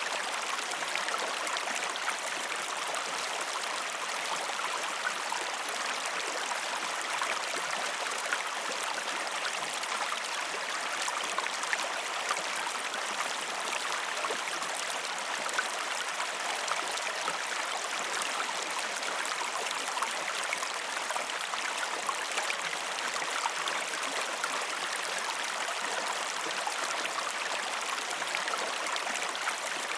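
River water rushing and splashing over rocks, a steady bright hiss of flowing water with small flickering splashes and no change over time.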